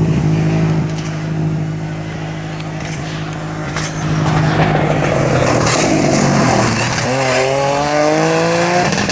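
Rally car engine held high at full throttle, then a few seconds of noisy, rough sound with some tyre squeal, then the revs climb steadily as the car accelerates away near the end.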